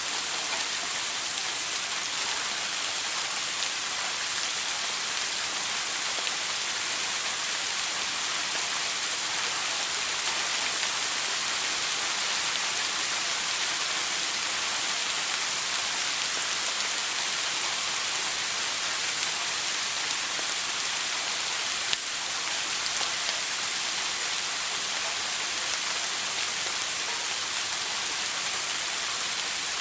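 Shower running: a steady, even hiss of water spray falling, with one brief tick about three-quarters of the way through.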